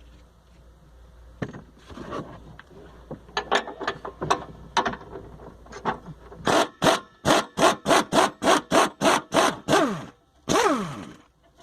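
A hand tool worked in quick strokes on the car's fittings: scattered scrapes at first, then a steady rasping stroke about three times a second. Near the end comes one longer stroke that falls in pitch.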